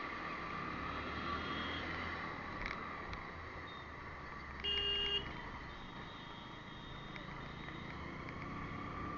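Road traffic noise, steady throughout, with one short horn beep about five seconds in.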